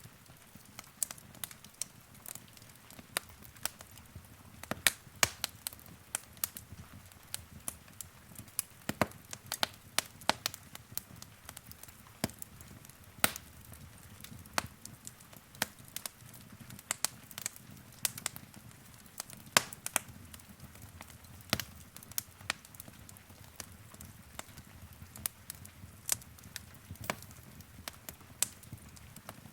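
Wood fire crackling: sharp, irregular pops and snaps, several a second at times, over a soft low rumble of burning.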